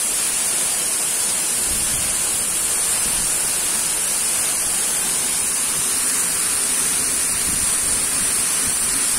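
Waterfall: the steady rush of falling water, unchanging throughout.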